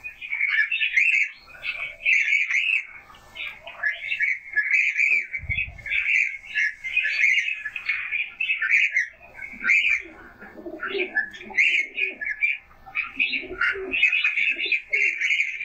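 Birds chirping busily and without pause in high, short calls, with low pigeon coos around ten and again around thirteen seconds in. One low thump about five and a half seconds in.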